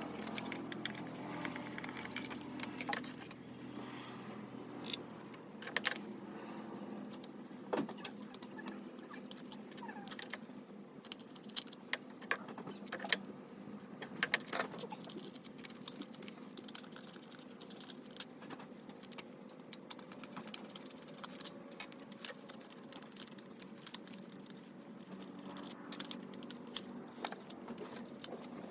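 Hand tools and small metal engine parts clinking and clicking at irregular intervals, as parts are taken off a scooter engine ahead of disassembly. A faint steady hum sits underneath.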